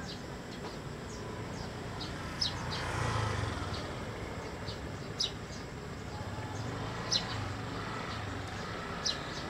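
A bird calling repeatedly: short, high chirps every two seconds or so, over a steady outdoor background with a low rumble that swells briefly about three seconds in.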